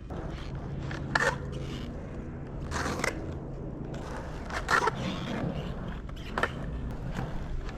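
Skateboard wheels rolling with a steady rumble, broken four times by short, sharp scrapes about every couple of seconds: the wheels sliding sideways as the board is swung round in reverts.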